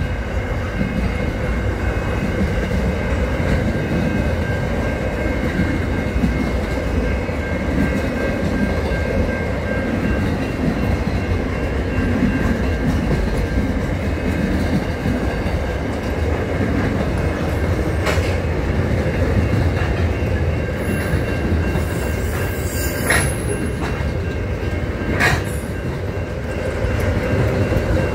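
Freight train of container and box wagons rolling past close by: a steady rumble of wheels on rail with a faint, steady high whine. Three sharp clanks come in the second half.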